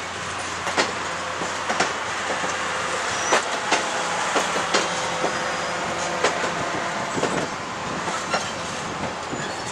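A long train rolling slowly past: steady steel-wheel-on-rail noise with irregular clicks as the wheels cross rail joints.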